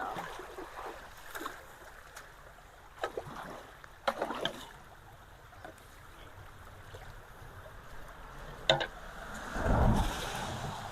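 Water running through a freshly unclogged culvert under a steady wash of rain and flow noise. A few sharp knocks and splashes come through, and there is a louder low rumble about nine to ten seconds in.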